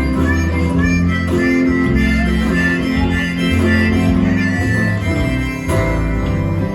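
Live band playing an instrumental break between sung lines, with a moving bass line under the melody.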